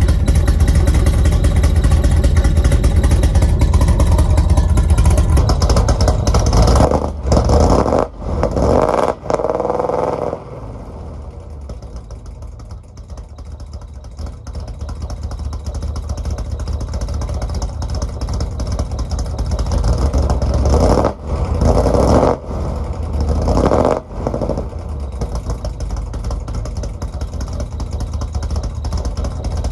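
Ghost-cammed Ford Mustang GT V8 running loud through headers and a Corsa Sport exhaust. It idles rough and is blipped a few times, with quick rises and falls in pitch at two points. It dips quieter for a few seconds in between, the stumbling idle of a car that the owner says keeps struggling and dying.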